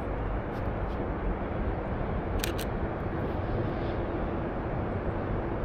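Two quick clicks of a Canon EOS RP's shutter, a fraction of a second apart, about two and a half seconds in. Under them is a steady low outdoor background noise.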